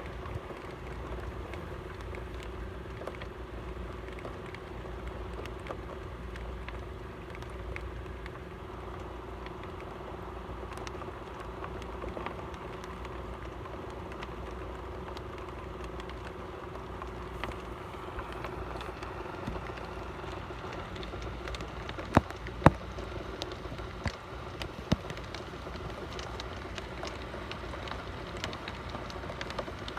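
Heavy rain pouring down, a steady hiss, with a few sharp taps about two-thirds of the way through.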